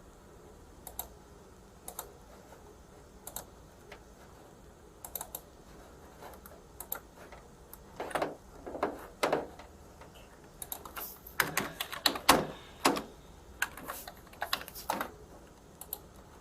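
Typing on a computer keyboard: scattered keystrokes at first, then quicker bursts of key clicks from about eight seconds in.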